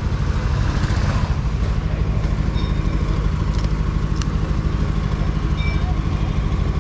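KTM Duke's single-cylinder engine idling steadily, with a quick, even pulse.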